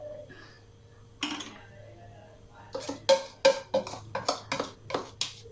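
Metal spoon clinking against a pot or bowl while gelatin is spooned and scraped into the warm condensed-milk glaze: one clink about a second in, then a quick run of clinks, several a second, in the second half.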